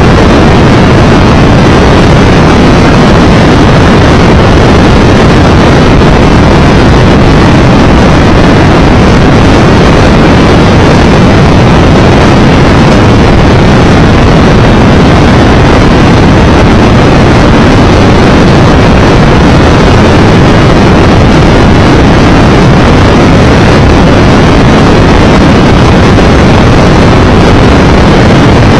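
Loud, steady wind rush buffeting the microphone of a Triumph Tiger Explorer 1200 motorcycle ridden at road speed, with engine and road noise beneath.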